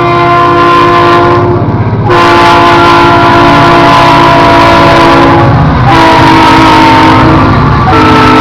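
BNSF freight locomotive's multi-chime air horn sounding very loud in long blasts, with short breaks between them, over the low rumble of the approaching train.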